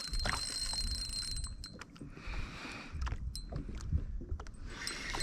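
Scattered knocks and clicks of a fish and gear being handled in a kayak, over a low rumble, with a short hiss about two seconds in.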